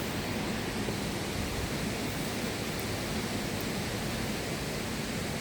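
Steady rushing water of a waterfall and stream, an even, unbroken roar.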